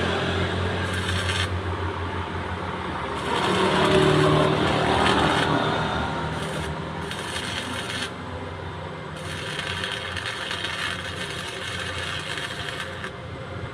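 Refrigerator compressor running with a low, steady mains hum, with irregular rushing noise over it; the hum weakens about halfway through.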